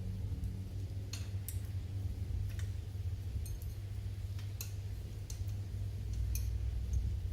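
Scattered light clicks and taps, about seven at irregular intervals, over a steady low hum.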